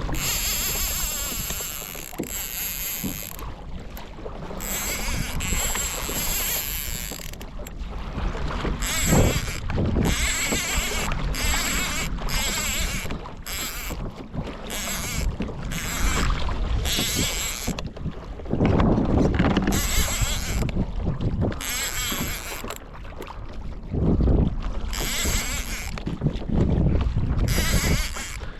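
Water rushing and slapping along a kayak's hull as a hooked kingfish tows it, in uneven surges, with wind buffeting the microphone.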